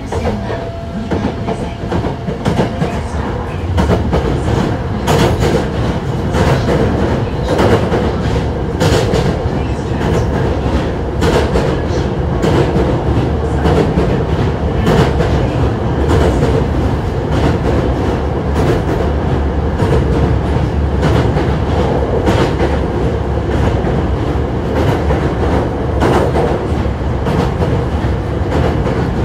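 Hankyu 1000 series electric train running at speed, heard from inside the car: a steady rumble of wheels on rail with frequent irregular clicks over rail joints. The running noise grows louder about four seconds in.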